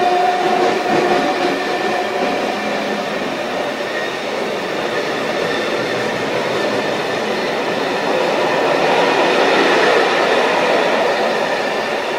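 Freight train of steel-coil wagons rolling past at speed: a steady rumble and clatter of wagon wheels on the rails, with faint thin squeals over it, swelling a little about nine to ten seconds in.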